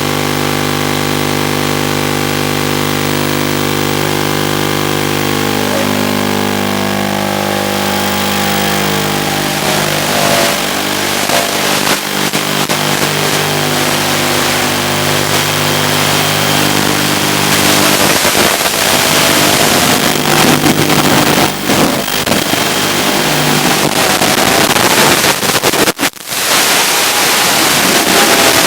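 Small FPV toothpick quadcopter's brushless motors spinning Gemfan 2540 tri-blade props. For about the first six seconds they hum at a steady pitch, then the pitch and level waver and climb with throttle changes in flight. The sound drops out briefly about 26 seconds in.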